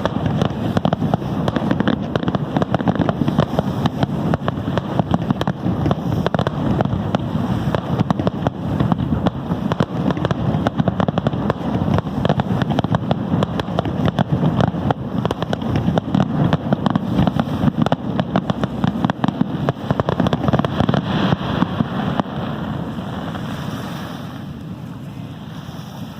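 Fireworks display: a dense, continuous run of rapid bangs and crackles that eases off and fades over the last few seconds.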